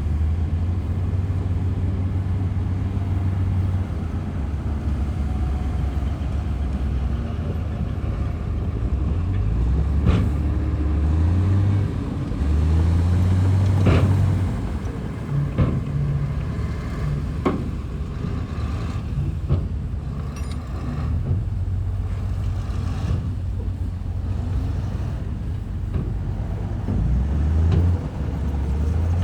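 Heavy diesel earthmoving machinery running, its engine note rising and falling as the load changes, with a few sharp metallic clanks around the middle.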